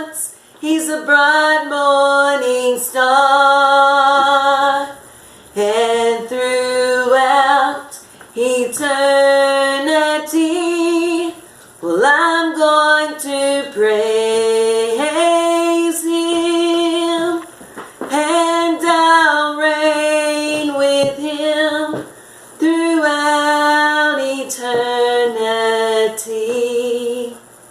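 A woman singing a worship song solo and unaccompanied, in held phrases a few seconds long with short breaks between them.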